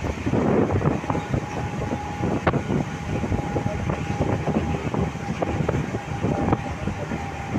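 Mumbai suburban electric local train running, heard from inside the coach: steady rumble and rattle of the wheels on the track, with irregular sharp clacks as the wheels pass over rail joints and a thin steady whine through most of it.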